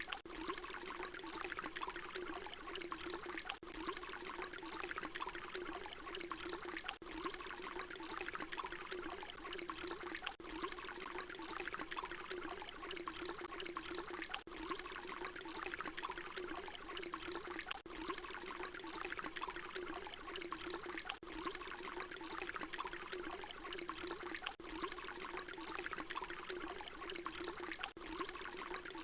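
Water pouring in a steady, bubbling stream, with a brief dip in level about every three and a half seconds.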